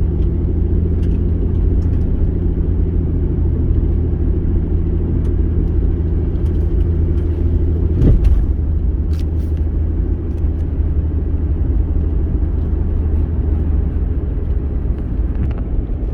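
Car driving on the road, heard from inside the cabin: a steady low rumble of engine and tyres, with a single brief thump about eight seconds in.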